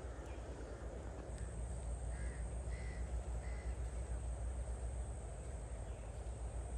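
A crow cawing three times in quick succession, over a steady low rumble.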